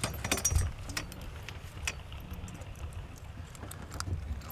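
Scattered light clicks and clinks of gear being handled, most of them in the first two seconds, over a steady low rumble.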